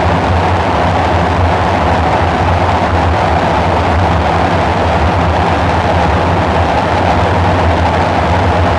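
Dark ambient synthesizer drone: a steady, unchanging deep rumble with a grainy, noisy midrange band and hiss over it.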